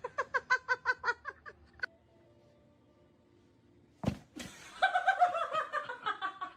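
A person giggling in quick, rhythmic bursts for about two seconds, then a pause. A sharp knock comes about four seconds in, followed by a longer laugh that falls in pitch.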